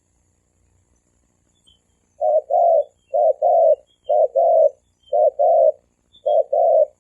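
Male spotted dove cooing: after about two seconds of quiet, five quick paired coos, each a short note followed by a longer one, about one pair a second.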